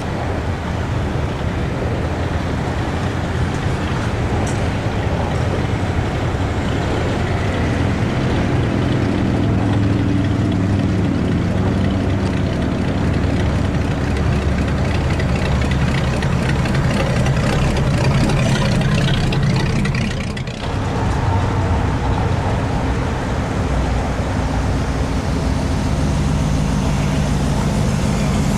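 Hot rod car engine idling steadily, with a brief drop in the sound about two-thirds of the way through.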